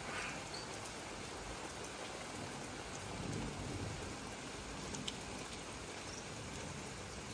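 Steady rain falling on trees, bushes and grass, an even hiss, with a low rumble swelling briefly about three seconds in.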